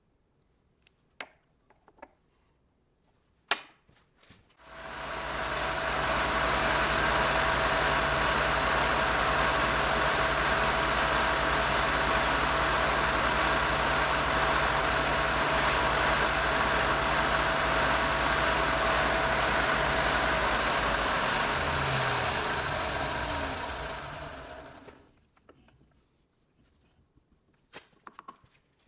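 A few sharp clicks, then a workshop power tool's motor starts, runs steadily with a constant whine for about twenty seconds, and spins down near the end.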